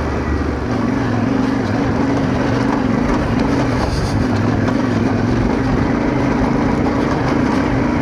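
Motorcycle engine running steadily under load as the bike is ridden over rough ground, its note rising and falling slightly.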